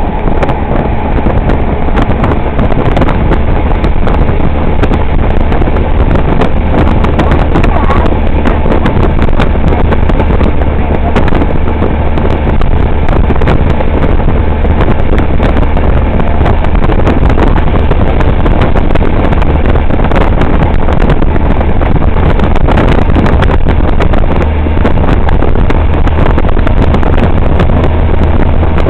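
A loud, steady engine drone with wind buffeting the microphone.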